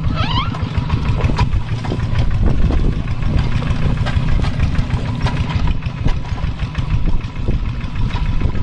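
Kubota tractor's diesel engine running steadily while pulling a plow through a rice paddy, with frequent short clicks and rattles over the engine sound.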